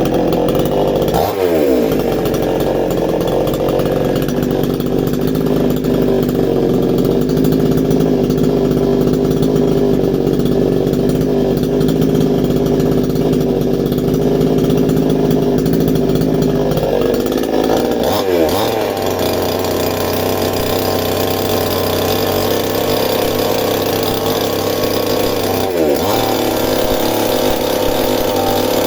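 Two-stroke chainsaw running at high revs while cutting into a wood stump. The engine note dips sharply about a second in, holds steady, then falls to a lower pitch after about two-thirds of the way through, with another brief dip near the end.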